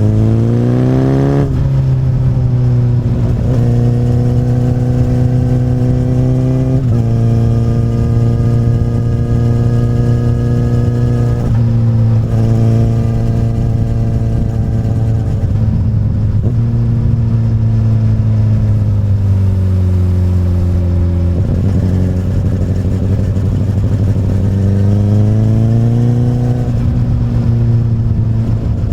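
Honda CBR1000RR inline-four sport bike running through an Akrapovic carbon slip-on exhaust on the road. It revs up sharply at the start, then runs at steady throttle with several abrupt pitch changes as it shifts gear. The pitch eases down and then climbs again near the end.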